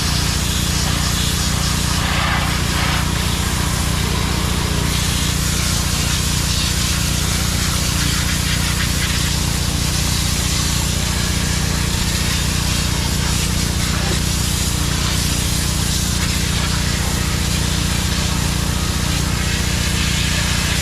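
Steady engine drone under an even hiss of high-pressure water spray, as of a pressure washer blasting degreaser off an excavator.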